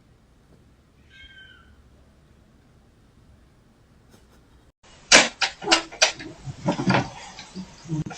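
A domestic cat gives one short, faint meow about a second in. About five seconds in, a loud, irregular run of knocks and clatter begins.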